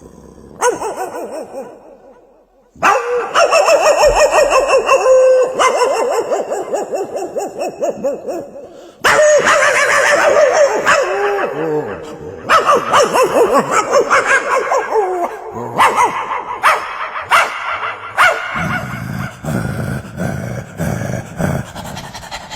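A man imitating a dog with his voice: long runs of rapid yelps, barks and howling, whimpering calls that glide up and down in pitch.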